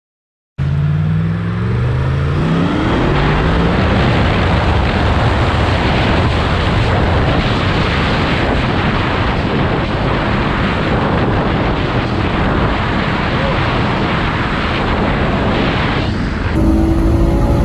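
Yamaha MT-10's 998 cc crossplane inline-four motorcycle engine revving up as the bike accelerates hard, followed by a long stretch of loud engine and wind noise at speed. Near the end, a cut brings a steadier engine note.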